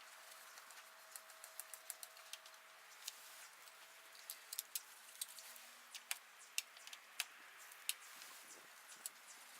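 Scattered light clicks and taps at irregular intervals, as small hand tools and parts are handled during the repair.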